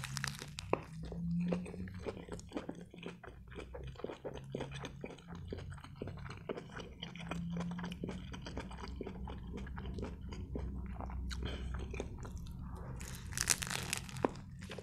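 A person biting into and chewing a grilled turkey shawarma in a lavash wrap: a bite at the start, then steady chewing with many small clicks, and a louder crunchy bite about thirteen seconds in.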